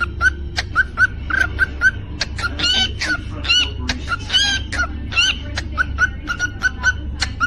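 Cockatiel calling in a run of rapid, evenly repeated short chirps, broken by a few louder, longer warbling calls in the middle, over a steady low hum.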